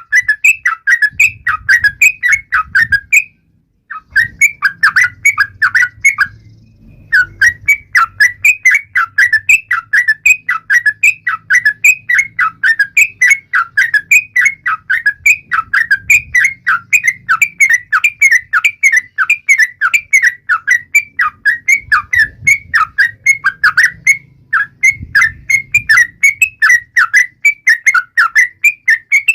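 Yellow-vented bulbul (trucukan) chattering: a fast, unbroken series of short sharp chirps at about four a second, the taunting call used to rouse other trucuk to sing. It pauses briefly about three seconds in and again near six seconds.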